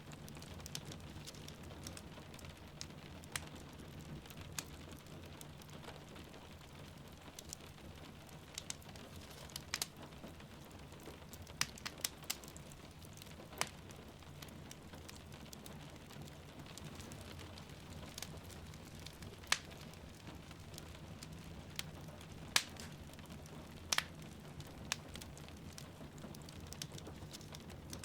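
Wood fire in a fireplace crackling, with sharp pops at irregular intervals, over the steady patter of rain.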